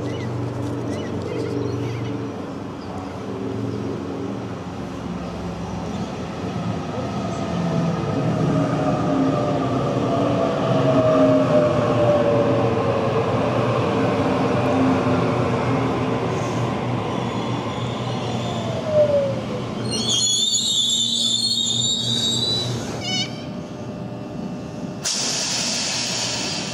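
A Sydney Trains electric suburban train running along the platform, with a whine that falls in pitch as it slows. About twenty seconds in the sound changes abruptly to high, steady squealing tones, and near the end it changes again to another train running.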